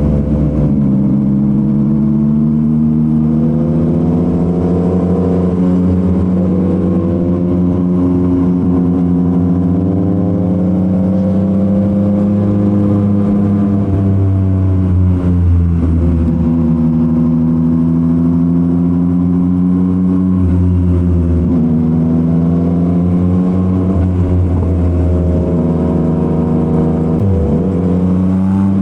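Yamaha MT-09's three-cylinder engine through a Revoc SP full exhaust system, running steadily on the move. Its pitch rises and falls gently with the throttle and dips a few times as it eases off.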